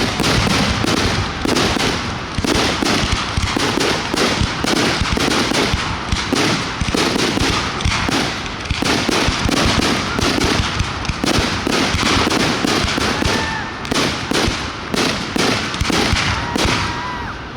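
Fireworks display in a rapid, continuous barrage of bursts and crackles, many reports a second with no pause. A few faint whistling tones come through near the end.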